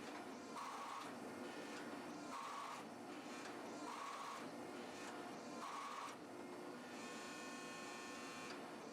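Hydraulic forging press working hot steel with drawing dies, cycling stroke after stroke with a repeating sound about every one and a half seconds.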